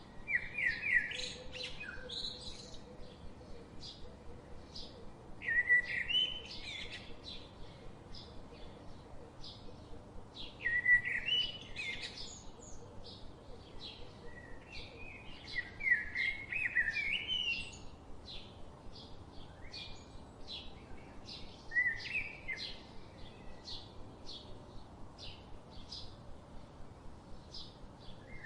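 Birds singing: one bird repeats a short phrase of quick rising and falling notes about every five seconds, six times, over a steady stream of rapid, high, short chirps.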